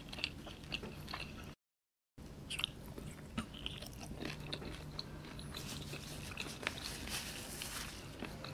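Close-miked chewing of a mouthful of rice and kerutuk curry eaten by hand, with many small wet mouth clicks and smacks. The sound drops out completely for about half a second near two seconds in.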